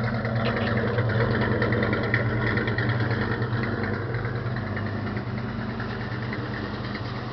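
1967 Dodge Dart drag car's 383 stroker V8 idling steadily, getting a little quieter over the second half.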